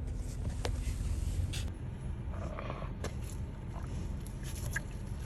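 Low steady rumble of a car idling or creeping along, heard from inside the cabin, with a few faint clicks and scrapes.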